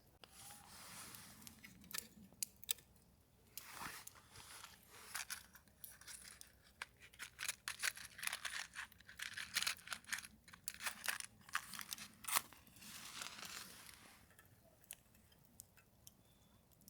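Crinkling, tearing and crackling handling noises with many sharp clicks, coming in bursts through most of the stretch and dying away about three seconds before the end.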